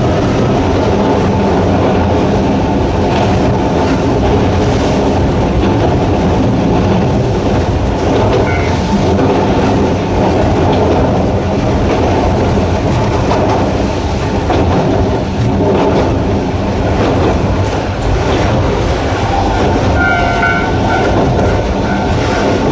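Sangi Railway Hokusei Line narrow-gauge train running steadily under its nose-suspended traction motors, wheels clacking over rail joints. Brief high wheel squeals come about eight seconds in and again near the end.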